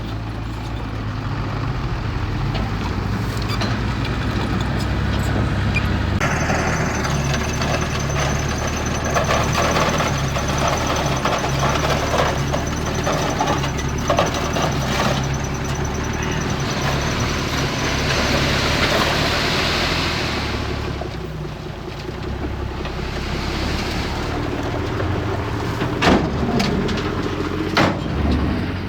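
Diesel engines of heavy earthmoving machinery running steadily under load, with scraping and clatter. A thin high whine runs for several seconds in the middle, and a couple of sharp knocks come near the end.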